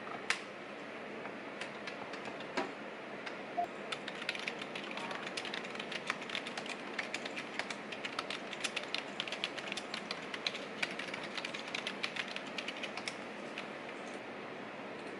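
Typing on a computer keyboard: a few single key clicks, then a long run of rapid, irregular key clicks, over a steady background hiss.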